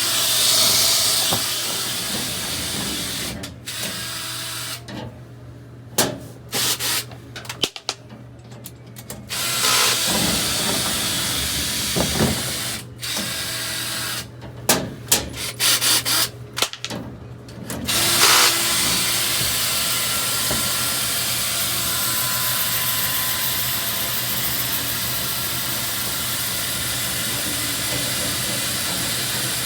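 Dryer vent cleaning equipment running: a motor with a steady rushing hiss over a low hum. It cuts out and restarts several times in quick bursts in the middle, then runs steadily again.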